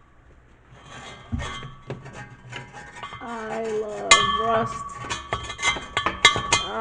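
Hard objects clinking and clattering as they are handled, a series of sharp clicks. About three seconds in, a voice draws out a long, wavering 'I' in a sing-song way.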